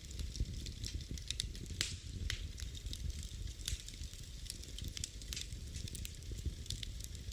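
Wood fire burning in a fireplace, with frequent irregular sharp crackles and pops over a low steady rumble of the flames.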